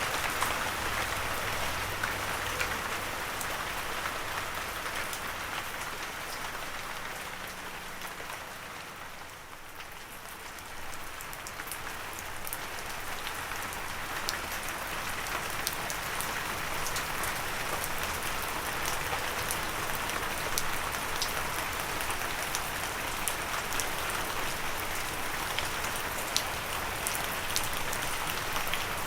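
Gentle steady rain falling, a continuous hiss of drops that dips in level briefly about nine seconds in, then returns with scattered individual drops ticking sharply.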